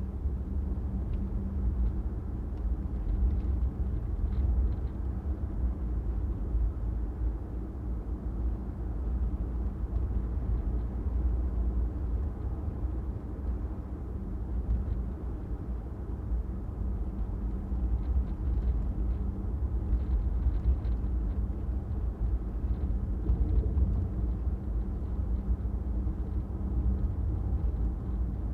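A car driving along city streets: a steady low rumble of engine and road noise.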